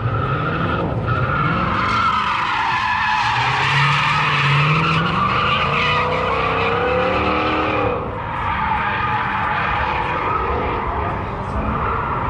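A car doing a burnout or drift run, with tires squealing continuously while the engine revs up and eases off several times.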